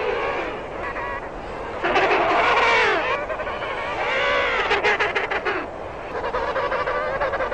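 African penguin braying: a string of loud, honking, donkey-like calls that rise and fall in pitch. The loudest call comes about two seconds in, and a fast pulsing stretch follows a couple of seconds later.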